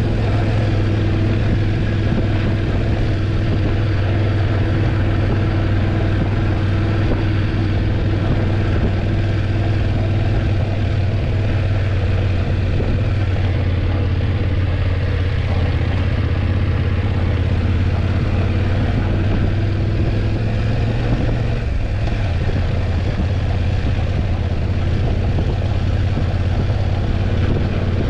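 BMW F850GS parallel-twin engine running at a steady, even pace with a constant low hum, its note shifting slightly about three-quarters of the way through.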